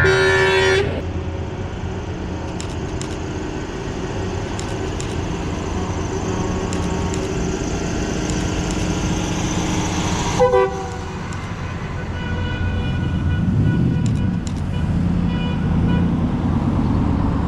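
Truck horn sounding a loud blast of just under a second, then a shorter toot about ten seconds later, over the steady running of truck engines in a convoy.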